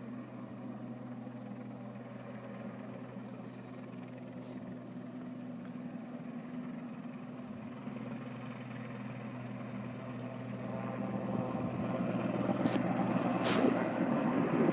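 Sikorsky S-61N passenger helicopter approaching to land, a steady low rotor and engine hum that grows gradually louder over the last few seconds as it comes closer.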